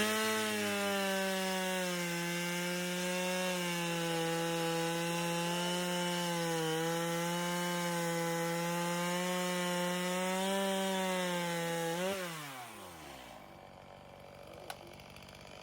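Chainsaw held at full throttle for about twelve seconds, its pitch sagging slightly now and then as it cuts through wood, then the throttle is released and the engine winds down.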